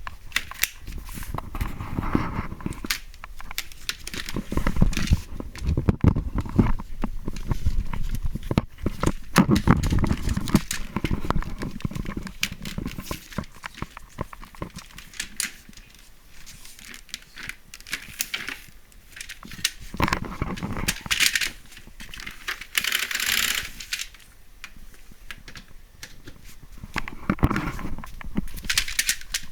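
Hands working on vacuum cleaner parts: irregular clicks, knocks and rustling, with no motor running.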